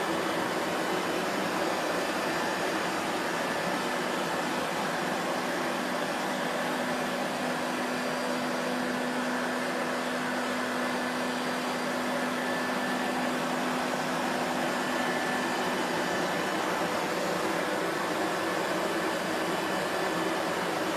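Vacuum cleaner running steadily, a continuous rushing whoosh of air with a faint steady motor hum under it.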